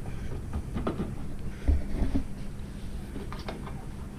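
Light clicks and knocks of parts being handled, with a low thump about two seconds in, over a steady low hum.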